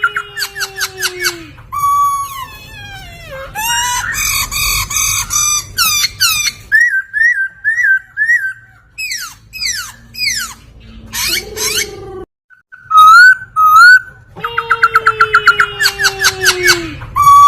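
Poksay (laughingthrush) song: loud, varied whistled phrases of rapid repeated notes, long downward-sliding whistles and harsher chattering passages. There is a brief break about twelve seconds in.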